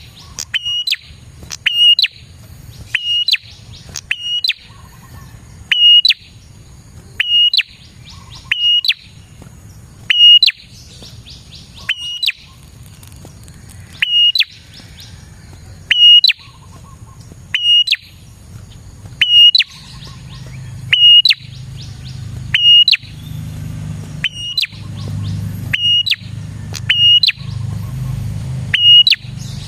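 Prenjak (prinia) calling: loud, sharp, high chirps repeated about once a second, often in pairs. A low hum underneath grows louder in the second half.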